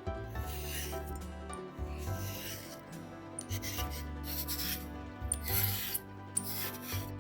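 Repeated rasping strokes of kitchen food preparation, about one a second, with soft background music underneath.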